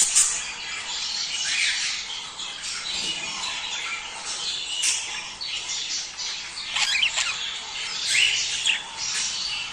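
A flock of budgerigars chattering: a dense, continuous warble of chirps and squawks, with sharper, louder calls standing out now and then.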